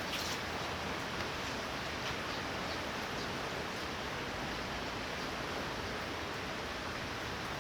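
Torrential rain falling steadily, an even hiss with a few faint ticks of individual drops.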